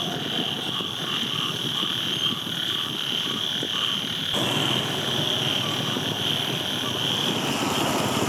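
Frogs croaking in a chorus over a steady high insect-like drone. A little past halfway the sound changes abruptly and a broader rumbling noise joins.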